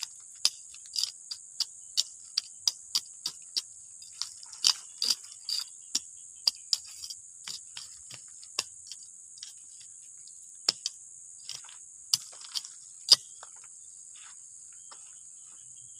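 Steady high-pitched chirring of insects, overlaid by irregular sharp clicks and snaps that come about twice a second at first, then thin out, the loudest about thirteen seconds in.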